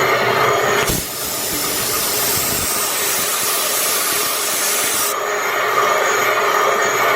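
Belt-driven shop machinery running steadily with a constant hum. About a second in, a loud even hiss starts suddenly over it and cuts off a little past five seconds in.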